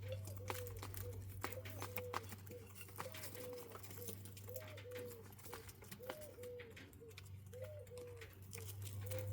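Small quail in an aviary giving soft, low, repeated calls, roughly one short note a second, with scattered small clicks and scratches from the birds moving about.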